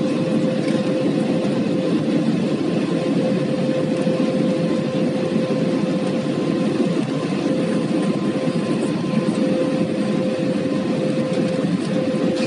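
Airbus A320 cabin noise in flight: a steady rush of engine and airflow noise with a constant hum running underneath.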